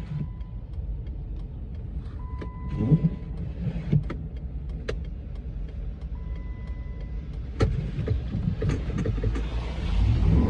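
The 2009 Jeep Commander's 5.7 Hemi V8 runs with a steady low rumble as it crawls through snow in four-wheel-drive low, heard from inside the cabin. A steady electronic beep sounds twice, a few sharp clicks come in between, and the sound grows louder near the end.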